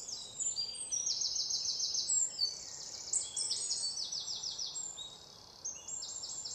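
Birds chirping: several high, rapid trills overlapping one another over a faint steady hiss, easing off near the end.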